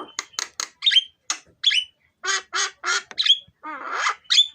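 Javan myna (jalak kebo) calling in a rapid string of about a dozen short notes: harsh, grating squawks mixed with whistled notes that slide down in pitch.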